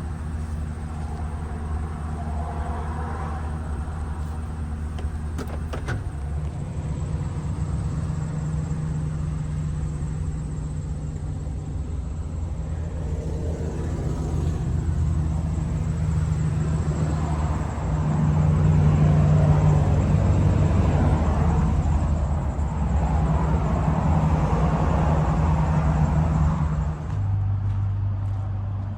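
A 6.0L V8 pickup engine running steadily, with one click about six seconds in. The engine note steps up and gets louder about two-thirds of the way through, then drops back near the end.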